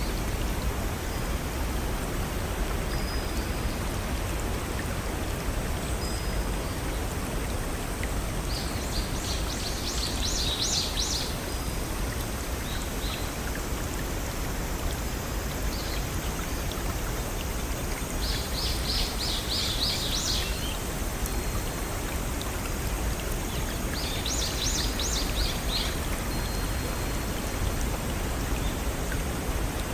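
Steady rushing of a small stream or waterfall. Over it, a songbird sings three short phrases of rapid, high repeated notes, about a third of the way in, two-thirds of the way in and again shortly after.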